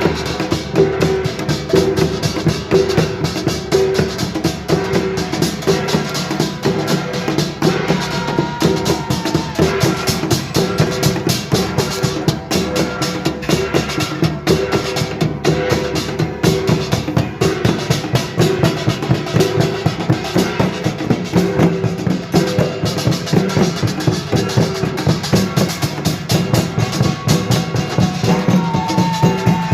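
Korean pungmul percussion band playing a fast, dense, driving rhythm without a break.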